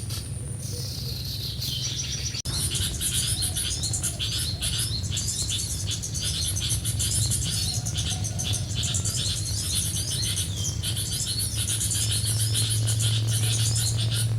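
Small birds chirping in a fast, evenly repeated series of short high notes, over a steady low hum; the chirping starts after an abrupt break about two seconds in.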